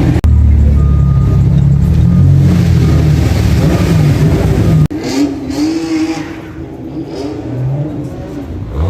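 A car engine revving hard and loud for about five seconds. Then an abrupt cut to a quieter stretch with people's voices over engine noise.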